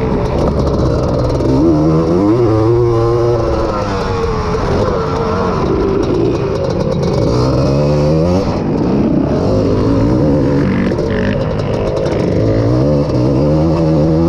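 Honda ATC250R three-wheeler's two-stroke single-cylinder engine racing. It revs up and drops back again and again, rising and falling in pitch every two to three seconds as the rider gets on and off the throttle.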